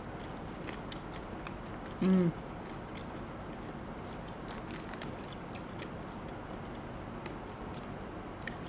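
People eating at a table: quiet chewing with scattered light clicks, and a short voiced sound about two seconds in, over a steady background hiss.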